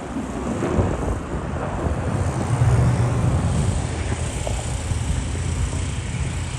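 F-35's single Pratt & Whitney F135 afterburning turbofan running during a fast pass, a deep, rough rumble that swells to its loudest about two and a half seconds in and then eases off.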